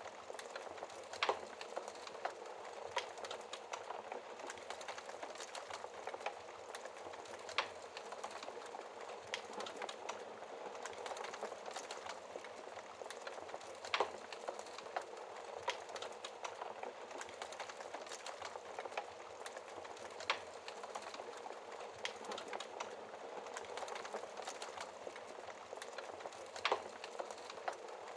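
Wood fire burning in a fireplace: a steady hiss and crackle of burning logs with sharp pops, the loudest about 1, 7.5, 14, 20 and 27 seconds in.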